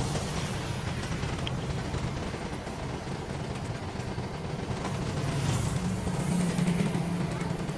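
Engine of heavy earth-moving machinery running steadily, a low drone that gets slightly louder near the end.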